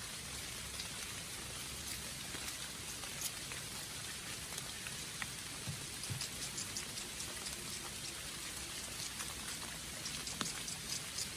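Steady rain falling, with many sharp taps of individual drops striking close by.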